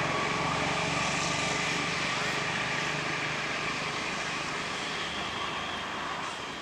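A steady mechanical drone with a hiss, like a passing vehicle or aircraft engine, slowly fading.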